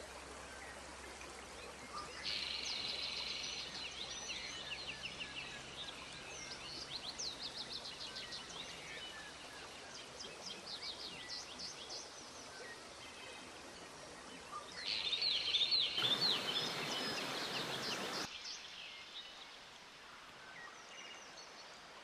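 Songbirds singing in rapid trilled phrases of quick, repeated notes over the steady rush of a flowing creek. The birds sing through the first half and again in a louder burst near the end, when a brief rush of noise also rises.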